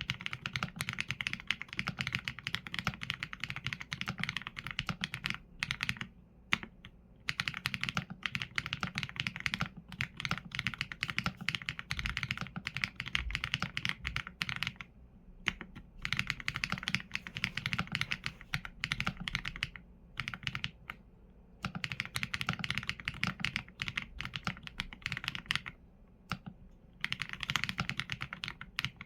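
Continuous typing on a mechanical keyboard with Leobog Graywood V4 linear switches and PBT keycaps: rapid keystroke clacks in runs of several seconds, broken by brief pauses.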